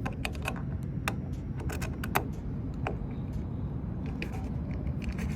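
Key being worked in a locking DEF filler cap and the cap turned: a string of small, irregular metallic clicks and rattles over a steady low rumble.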